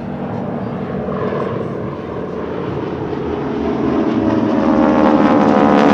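A formation of North American T-6/SNJ Texans, with Pratt & Whitney R-1340 radial engines, making a low pass. The sound grows steadily louder as they approach, and near the end the harsh propeller rasp drops in pitch as they go by. That rasp comes from the propeller tips going supersonic.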